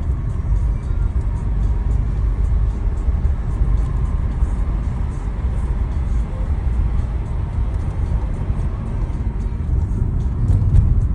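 Steady road and engine rumble heard from inside a moving car, a Volkswagen Golf TSI hatchback, with no sudden changes.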